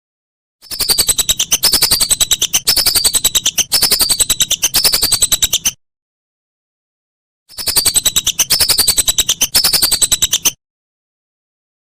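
Whistling duck (belibis) calling: rapid chattering pulses with high whistled notes that fall in pitch, repeated about every half second, in two bouts with a gap of about two seconds of silence between them.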